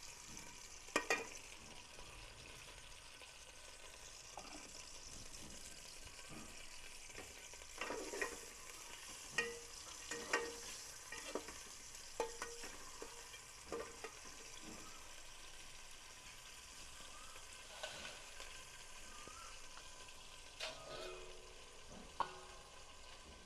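Chicken frying in hot oil in a pot, a steady sizzle, with a spoon knocking and scraping against the pot as it is stirred, in clusters of knocks through the middle and again near the end.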